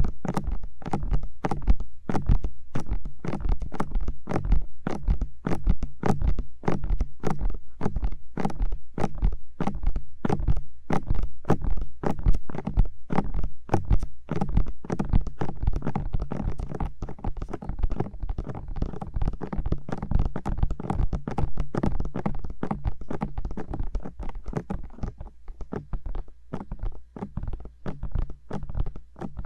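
Bare fingers tapping directly on the silicone ears of a 3Dio binaural microphone: a fast, continuous run of dull thumping taps, about four a second, a little softer near the end.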